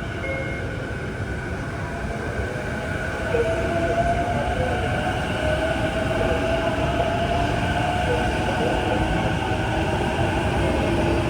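Electric commuter train running, with the rumble of its wheels on the rails and a steady motor whine made of several tones, one rising slowly in pitch as the train picks up speed. The sound gets louder about three seconds in.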